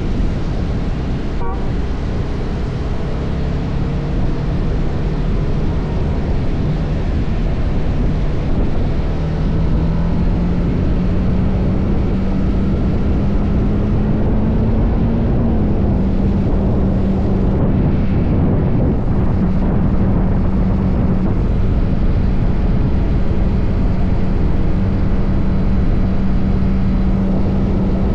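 TVS Apache RR310's single-cylinder engine on its stock exhaust, running under way. The note climbs steadily over the first half as the bike gathers speed, then holds steady at cruise. Heavy wind rush runs underneath.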